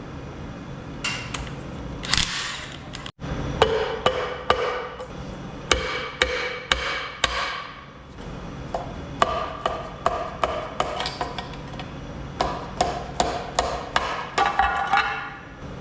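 Hammer striking metal again and again in irregular clusters of sharp blows, each with a short metallic ring, knocking the front cover plate loose on a Detroit Diesel 3-53 engine.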